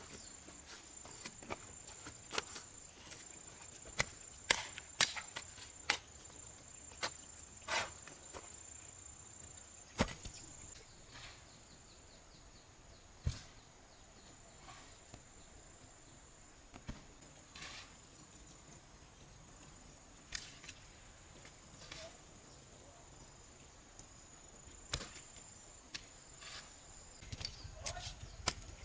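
A steady high-pitched insect drone with scattered sharp knocks and taps, irregular and a second or more apart, the loudest of them around four to six seconds in and again near ten and thirteen seconds.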